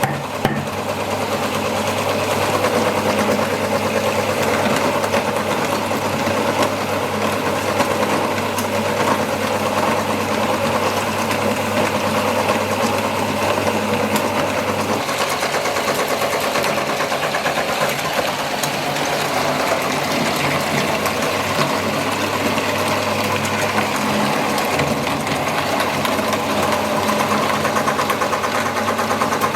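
Motorised meat grinder running steadily while it grinds chicken, a continuous mechanical whirr with a fast fine rattle that shifts slightly in its low hum about halfway through.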